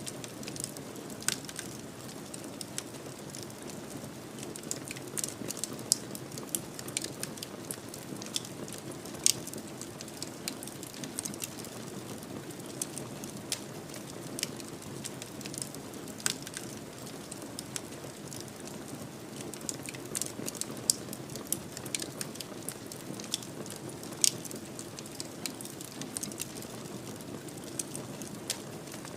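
Wood fire burning in a fireplace: a steady low rush of flames with many irregular pops and crackles, a few of them sharper and louder.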